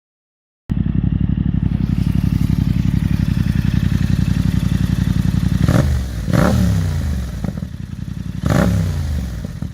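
Yamaha MT-07's parallel-twin engine idling through an Ixil Hyperlow exhaust with its baffles in, starting abruptly after a brief silence. It is revved in two quick throttle blips about six seconds in and once more near the end, the revs rising and falling each time.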